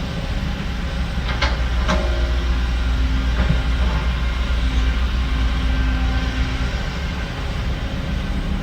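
Heavy diesel earthmoving machinery running with a steady low rumble, with two sharp metal clanks about one and a half and two seconds in.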